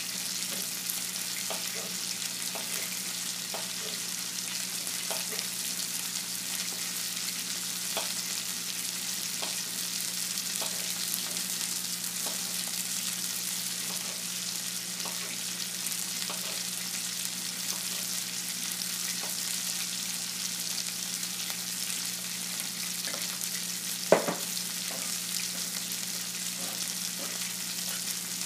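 Food frying in a pan: a steady sizzle with scattered small crackles and ticks, and one sharp knock about four seconds before the end.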